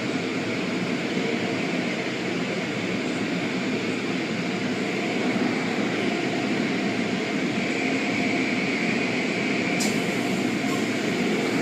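Automatic car wash running: a steady rushing of spray and machinery, with a faint steady whine and a short click about ten seconds in.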